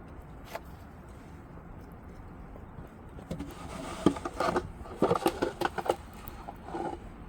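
A cluster of sharp knocks and clicks with some scraping, starting about three seconds in and ending by about six seconds, over a low steady background.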